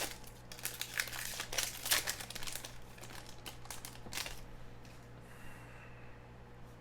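Trading card pack wrappers being torn open and crinkled by hand: a dense run of crackling and tearing for about four seconds, then quieter.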